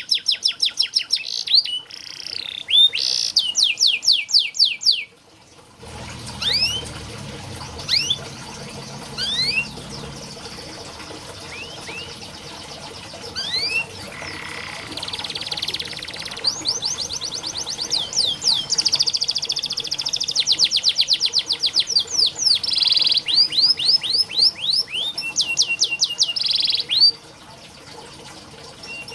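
Canary singing: fast rolling trills of rapidly repeated sweeping notes. They break off about five seconds in, give way to scattered single rising chirps, then return as long dense trills that stop shortly before the end.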